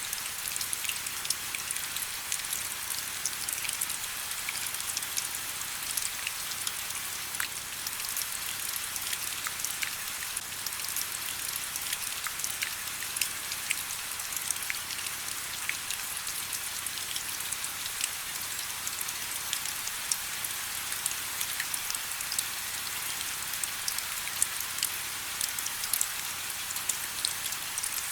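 Steady rain with many individual drops ticking on a surface, a bright hiss with no low rumble.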